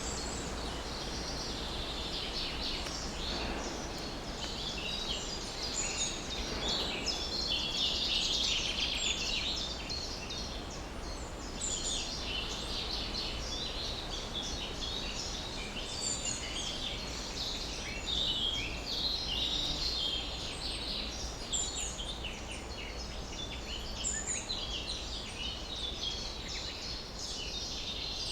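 A dense chorus of many small songbirds chirping and trilling, their calls overlapping without a break, over a steady low rumble.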